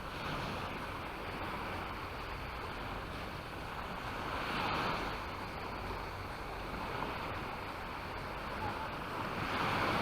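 Sea waves breaking and washing up on a sandy beach, a noisy surf that swells to a louder wash about every four to five seconds.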